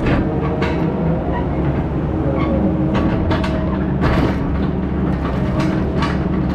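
Heavy diesel equipment running steadily, with a constant low engine drone and frequent metallic clanks and rattles.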